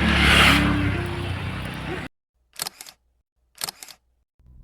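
Road and wind noise from an outdoor ride cuts off suddenly about two seconds in. Two quick double clicks follow about a second apart, like a camera shutter. Near the end, rapid keyboard-typing taps begin.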